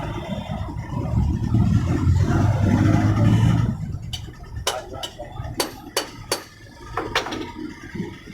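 A small electric motor hums steadily for about two and a half seconds and stops, then several sharp metal clinks follow.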